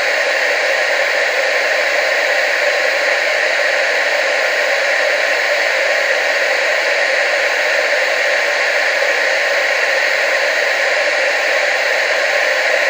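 Television static hiss, a steady even noise that is strongest in the middle and upper range and thin in the bass, with no change in level.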